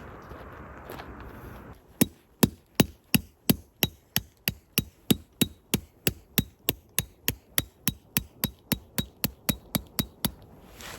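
Hammering: about two dozen sharp, evenly spaced blows, roughly three a second and speeding up slightly, each with a short metallic ring. It starts about two seconds in and stops just before the end.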